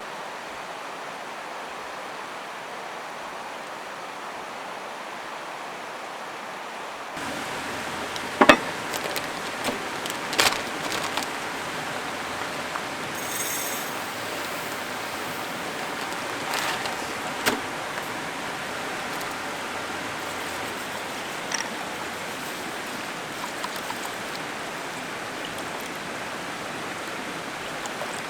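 Mountain stream flowing steadily, with a few sharp knocks and clicks from about eight seconds in.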